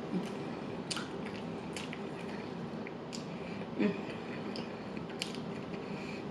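Close-miked chewing of food, with scattered short wet mouth clicks and smacks.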